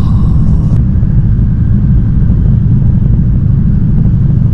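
Steady low rumble inside the cabin of a shinkansen bullet train running on the Tokyo–Sendai line.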